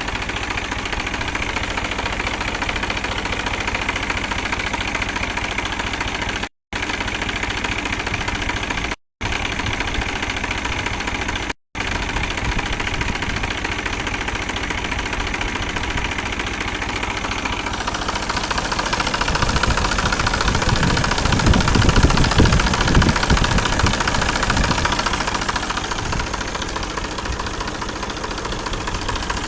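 New Holland 47 HP tractor's diesel engine running steadily at idle. Past the middle it gets louder and rougher for several seconds, then settles again. The sound cuts out completely for an instant three times.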